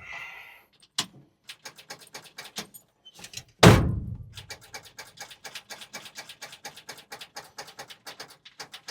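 A loud, heavy thunk a little before halfway, with a few sharp clicks before it and a fast, even run of clicking, about six a second, after it.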